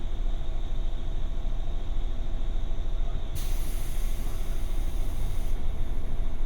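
Inside a 201 series electric train car standing at the platform: a steady low rumble from the car's equipment, and about three and a half seconds in a loud hiss of compressed air that lasts about two seconds and cuts off sharply, the air system venting as the doors close before departure.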